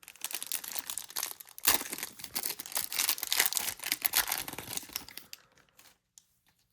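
Baseball card pack wrapper being torn open and crinkled by hand, a dense crackling with a sharp rip about two seconds in, dying away after about five seconds.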